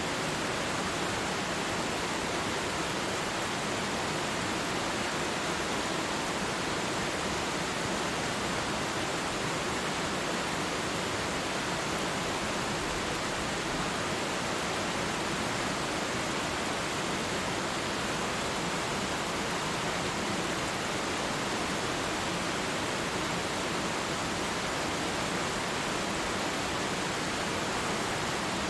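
Waterfall: a steady, even rush of falling water that holds without change.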